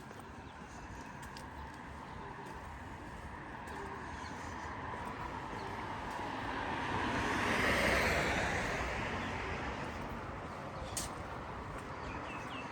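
A road vehicle passes close by on a city street: its noise builds to a peak about eight seconds in, then fades, over a steady background of traffic.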